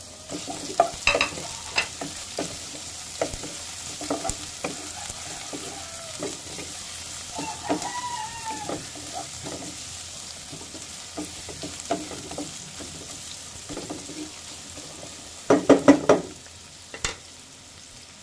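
Garlic and julienned ginger frying in oil in a nonstick pan, a light steady sizzle with a wooden spatula scraping and knocking against the pan as it is stirred. A quick run of louder knocks comes near the end.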